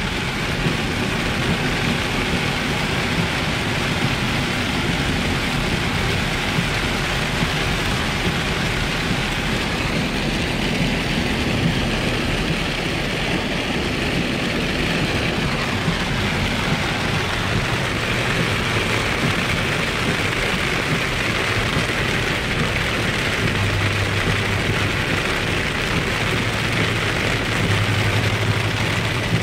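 Heavy rain falling on a moving Lexus LX 470 SUV, heard from inside the cabin as a steady, dense hiss, with the vehicle's engine and tyre noise on the wet road beneath. Near the end a low steady hum comes up under the rain.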